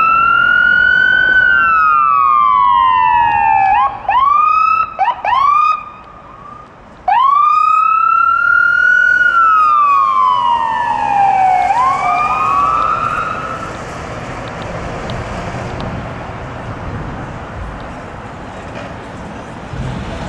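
Ambulance siren wailing, its pitch climbing and then sliding slowly down. Between the two long wails come a few quick rising whoops. Near the end of the last sweep it stops and only road traffic noise remains.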